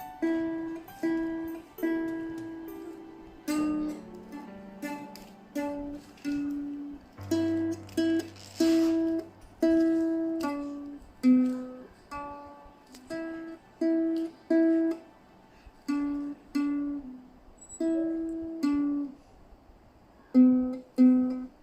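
Ukulele played one plucked note at a time: a slow, halting melody with short pauses between the notes.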